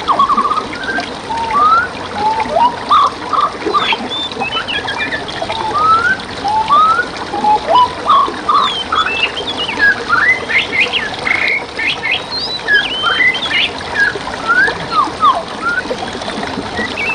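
Several songbirds chirping and whistling in quick, short, rising and falling notes, one after another, over the steady rush of water flowing in a stream.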